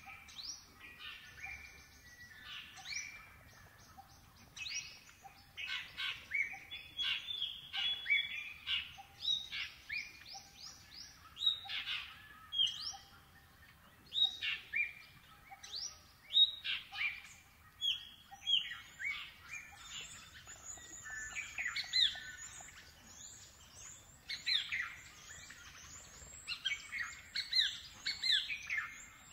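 Birds chirping: a busy run of short, sharp, downward-sweeping chirps that overlap and grow busier in the second half.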